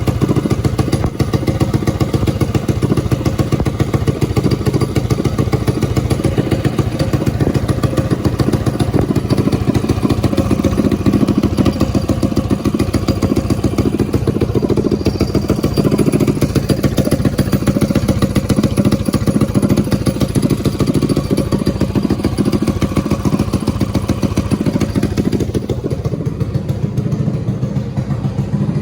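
Race minibike engine running on a heat cycle to get it race-ready, its exhaust firing in rapid, even pulses. It runs steadily and gets a little quieter near the end.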